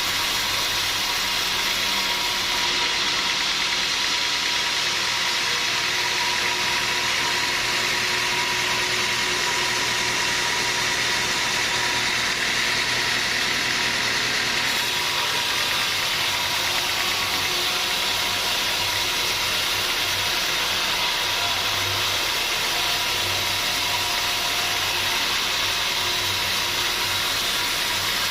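Sawmill machinery running steadily: an even noise with a low hum and a thin steady whine, with no breaks.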